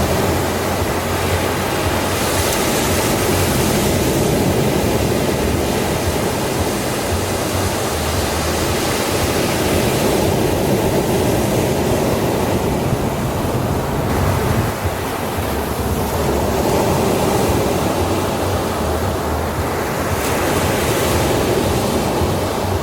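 Ocean waves breaking and washing onto a sandy shore: a continuous rushing surf that swells and eases every several seconds.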